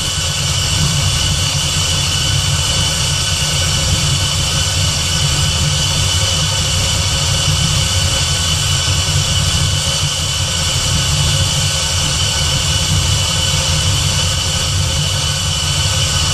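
Terminator-swapped Fox-body Mustang's supercharged 4.6 L DOHC V8 idling steadily, with a steady high whine over the low engine note, as it runs up to temperature while its cooling system is burped of air.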